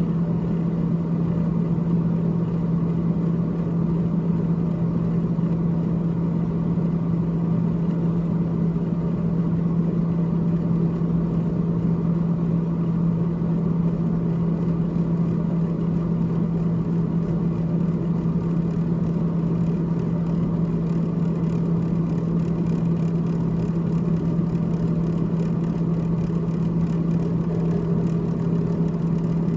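Freezer evaporator fan of a GE GTH18XCTZRBB refrigerator running, a steady whir with a constant low hum.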